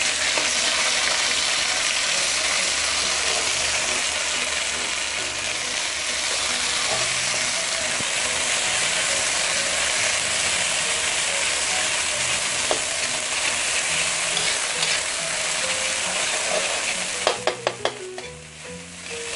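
Garlic and red curry paste sizzling in hot oil in an aluminium wok, stirred with a metal spatula that scrapes across the pan. Near the end come a few sharp knocks, and the sizzling briefly drops off.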